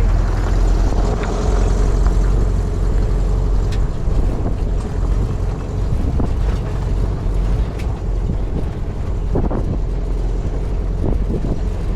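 Air-cooled flat-four engine of a 1950s VW bus running steadily under way on a rough dirt and rock trail, a loud low rumble with scattered knocks and rattles from the bumpy ground.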